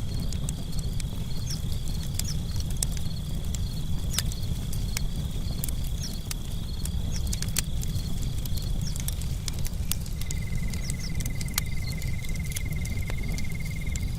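Wood campfire crackling with scattered sharp pops over a low steady rumble, while crickets trill. One high, steady trill runs until about nine seconds in, and a second, lower trill starts about a second later and continues.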